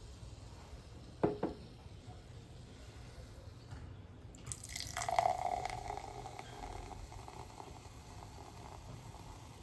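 Soft drink being poured into a glass and fizzing. A sharp click comes about a second in. From about four and a half seconds there is a hissing rush of pouring that fades over the next couple of seconds.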